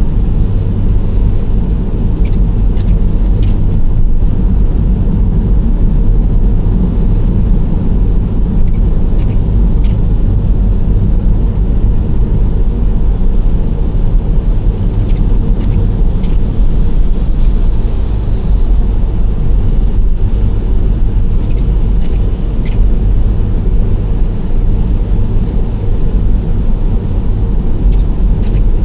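A Nissan Serena C25 minivan driving at a steady pace: a continuous low rumble of engine and tyre noise, with a few faint high ticks here and there.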